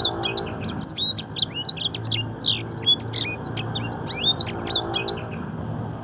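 Canary singing a fast, busy song of chirps and quick whistled sweeps, a training song filled with blackthroat and Edelsänger phrases. The singing breaks off a little after five seconds in.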